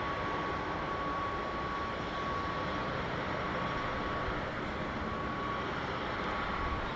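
Steady background rumble and hiss with a faint, steady high whine that drops out and returns a few times.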